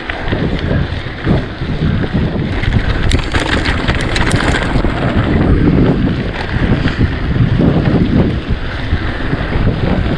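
Wind buffeting the microphone over the rumble of a mountain bike riding a rough double track, with a run of sharp rattles and clicks from the bike a few seconds in.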